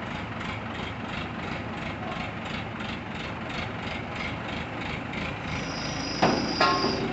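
Heavy engine running steadily with an even pulsing of about three beats a second. Near the end come two loud metallic clangs, the second one ringing.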